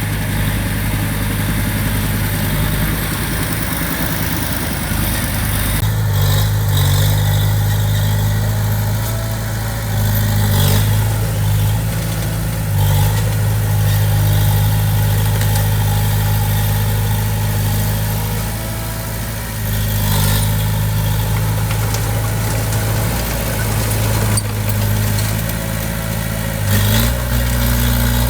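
Heavy-equipment diesel engine running steadily, with a few clanks along the way and its pitch stepping up near the end.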